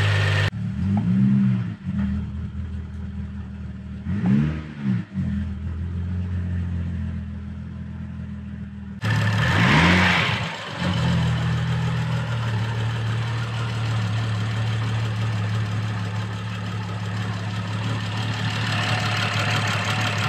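BMW 335i's N55 turbocharged straight-six running at a steady idle, blipped three times with short revs that rise and fall in pitch. This is the first start after the injector, valvetronic motor and VANOS bolt work, with the oil circuit freshly primed.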